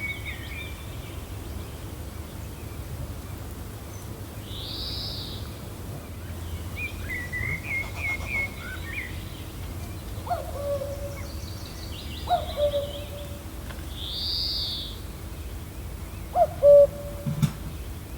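Several wild birds calling and chirping over a steady low wind: a high arched call repeats a few times, with runs of quick chirps between. From about ten seconds in, lower short calls come every couple of seconds, the loudest near the end.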